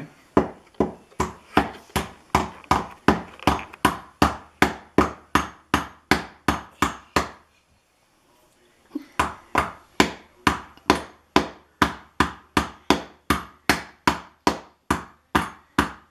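Hammer driving nails into the wood of a birdhouse, with steady blows at about two to three a second. The blows stop for about a second and a half midway, then resume at the same pace.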